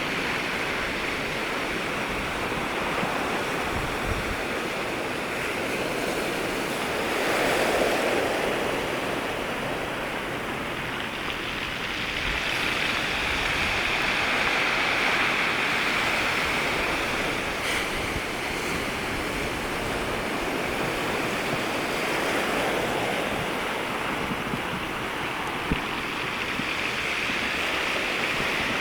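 Ocean waves breaking and washing up at the water's edge in a continuous rush of surf. It swells louder about eight seconds in, again for several seconds in the middle, and once more near the end.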